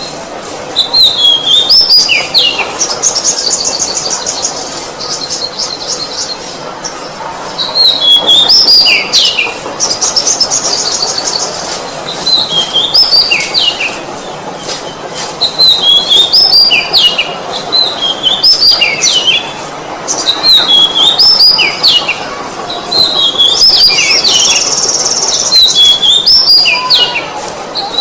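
Oriental magpie-robin (kacer) singing loudly: short phrases of quick whistled notes that slide and drop in pitch, repeated every couple of seconds, broken three times by a fast, high rattling trill.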